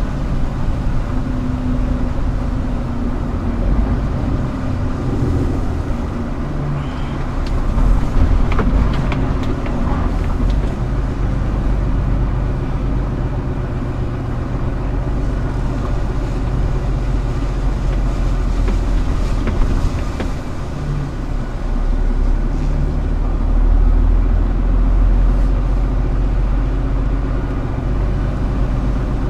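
Scania R410 truck's diesel engine running steadily, with a few short clicks and rattles about a third of the way in and again later.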